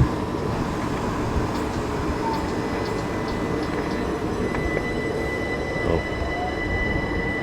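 Class 376 electric multiple unit running through the station: a steady rumble of wheels on rail, with a steady high whine that comes in about halfway.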